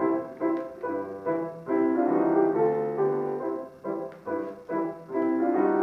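Solo piano playing a lively interlude of quick separate notes and chords, after a brief pause.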